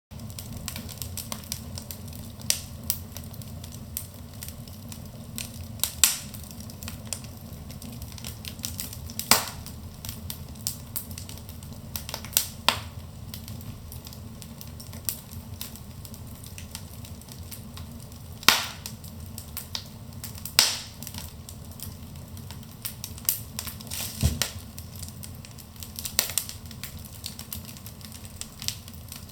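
Wood fire burning in a fireplace: a steady low rumble of flames with irregular crackling and sharp pops from the burning logs, a dozen or so louder snaps scattered through.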